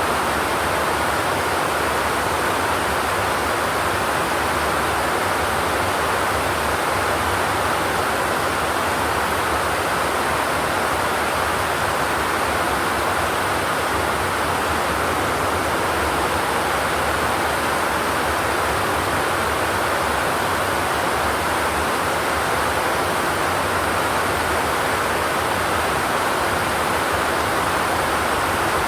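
Steady, dense rain on a corrugated zinc roof: an even hiss with no distinct drops and no thunder.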